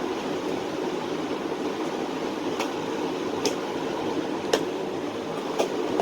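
Steady fan-like whir of room noise, with four sharp light clicks about a second apart from a small object being handled.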